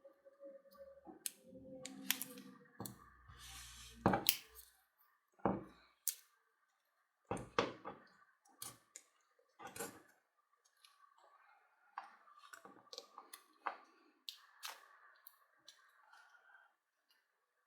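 Irregular small clicks, taps and scrapes of hand work on a rewound drill-motor armature: insulating wedges being fitted into the armature slots, with a few louder knocks along the way.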